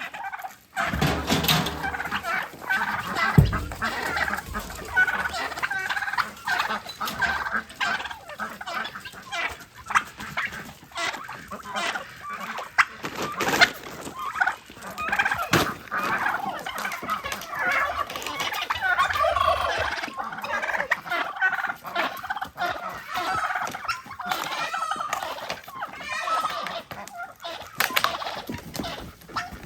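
Male turkeys gobbling and calling without pause during a fight, with a few sharp knocks among the calls.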